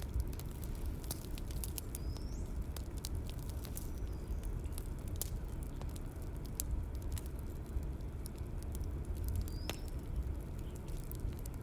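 Bonfire crackling, with irregular sharp pops over a steady low rumble of the flames. Two brief high chirps sound about two seconds in and near the end.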